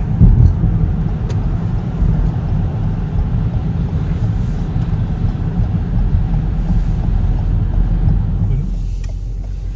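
Car cabin noise while driving: a steady low engine and tyre rumble that eases off slightly near the end.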